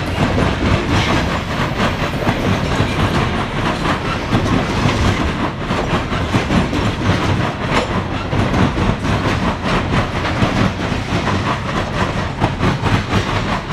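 Freight train of coal cars rolling past close by, wheels clicking steadily over the rail joints in a continuous clickety-clack; the last car goes by near the end.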